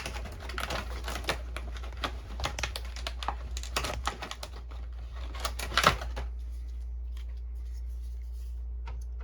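Quick clicks and light plastic rattles of a refill syringe and black ink bottle being handled, with a louder clack about six seconds in. After that only a steady low hum remains.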